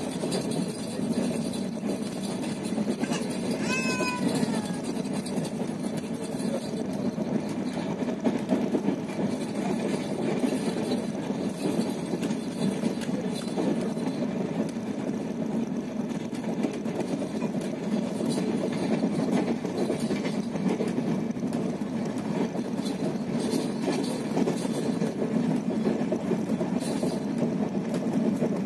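Passenger train running at speed, heard from inside the coach: a steady rumble of wheels on rails. About four seconds in, a baby gives a short, high whine.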